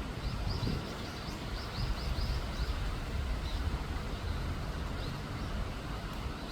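A small bird chirping: a quick run of short high chirps, about four a second, for about two seconds, then a few single chirps. Under it is a steady low background rumble.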